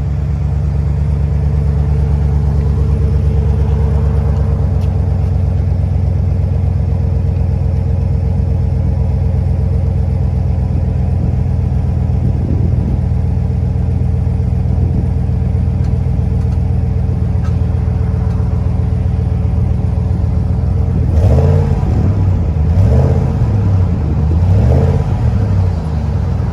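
2020 Ram's Hemi V8 exhaust through a Flowmaster muffler, idling steadily, then revved briefly three times near the end.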